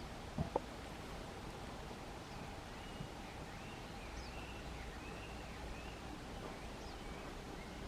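Faint small-bird calls: a run of short, wavering chirps that begins about two and a half seconds in, over steady outdoor background noise. Two soft knocks come near the start.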